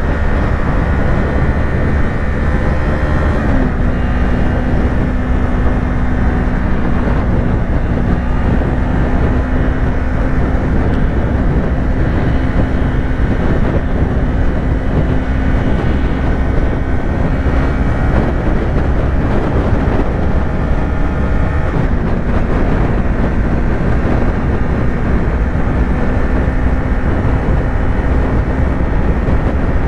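Yamaha YZF-R3's 321 cc parallel-twin engine running steadily at highway cruising speed, with heavy wind rumble on the helmet microphone. The engine note dips slightly twice, once a few seconds in and again about two-thirds through.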